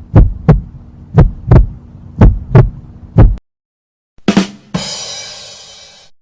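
Heartbeat sound effect: paired lub-dub thumps about once a second over a steady low hum, stopping about three and a half seconds in. After a short gap comes a sharp hit, then a hissy crash that fades away over about a second and a half.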